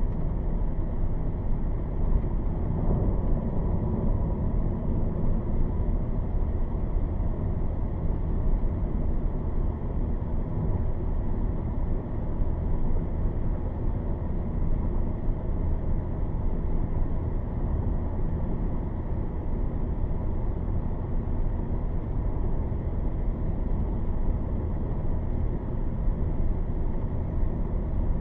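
Steady rushing noise of a strong thunderstorm, heaviest in the low end, with no distinct thunderclaps.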